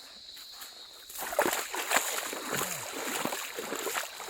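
Water splashing and sloshing in irregular bursts, starting about a second in, over a steady high-pitched insect drone.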